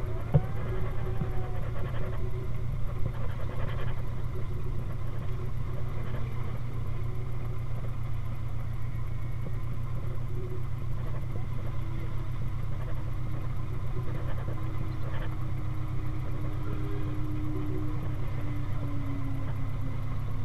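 1931 Ford Model A Speedster's four-cylinder engine running as the car drives along, a steady low drone with even firing pulses. A faint whine slowly falls in pitch near the end.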